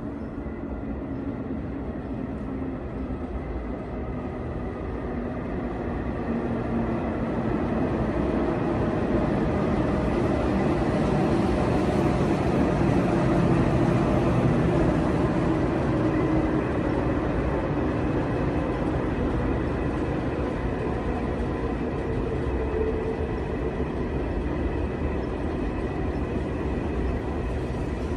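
A train running through the station, a continuous rumble with a faint steady whine that grows louder over the first half and eases slightly after.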